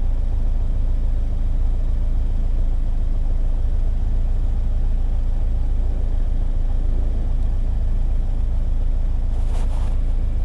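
Flat-four boxer engine of a Scion FR-S / Subaru BRZ idling with a steady low rumble, through an exhaust modified to run louder than stock.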